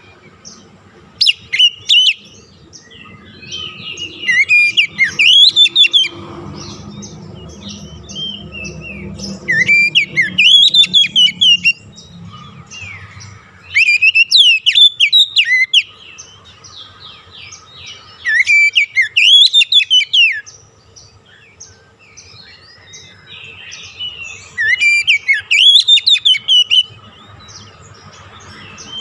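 Oriental magpie-robin (kacer) singing loud, rapidly varying whistled phrases of a second or two. The phrases come back every four to five seconds, with quieter twittering between them.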